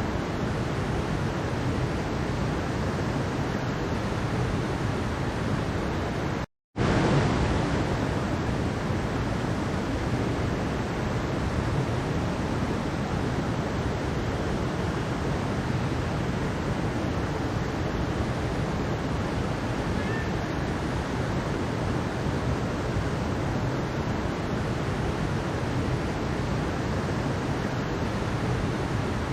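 Mountain stream water rushing steadily. The sound cuts out for a split second about six and a half seconds in, then resumes slightly louder.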